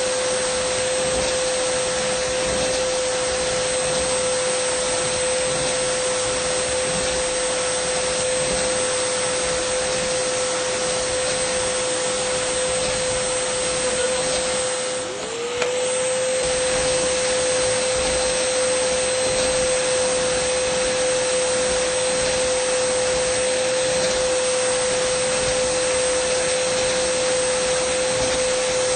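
Dyson vacuum cleaner running steadily: a constant whine over a rush of air. About halfway through, the sound briefly dips and the whine drops in pitch, then comes straight back up.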